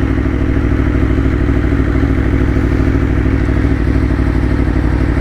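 Aprilia Tuono V4 1100's V4 engine running at a steady, even pitch while the motorcycle is ridden.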